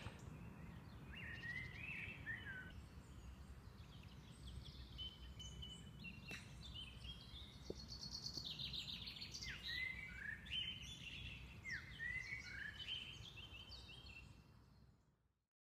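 Faint birdsong: several short chirping and sliding calls over a low steady outdoor rumble, fading out near the end.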